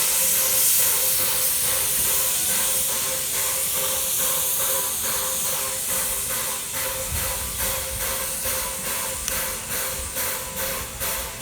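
Steam locomotive #12 working, its exhaust chuffing at about two beats a second under a loud hiss of escaping steam that eases off over the first half.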